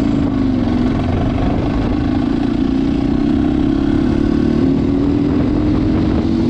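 Crossfire HJ250 motorcycle engine running under the rider. Its pitch dips about a second and a half in, then rises steadily as the bike gathers speed, and falls back near the end.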